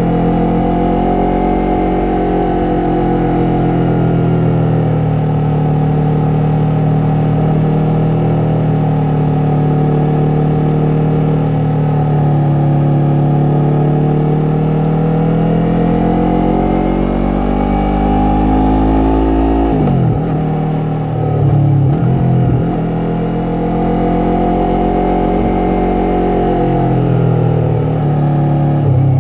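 Yamaha MT-03's parallel-twin engine and exhaust while riding, its pitch rising and falling slowly with the throttle. Around 20 to 22 seconds in the revs drop and jump sharply a few times, as in gear changes, and again near the end.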